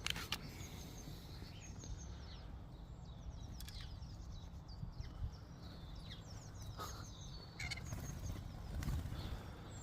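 Starlings calling with short, high chirps and whistles scattered throughout, over a steady low background rumble.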